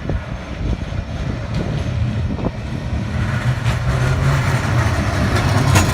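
Blackpool tram approaching and passing, its low running rumble of motors and wheels on rail growing louder over the last few seconds, with wind buffeting the microphone.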